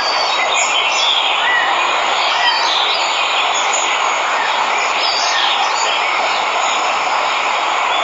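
Steady rush of a waterfall, with birds chirping over it.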